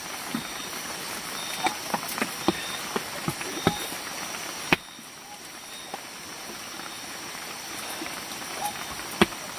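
Steady rain hiss with a thin high steady tone over it, broken by scattered light clicks and knocks of food and utensils being handled; a sharp click comes a little before halfway, after which the background is a little quieter.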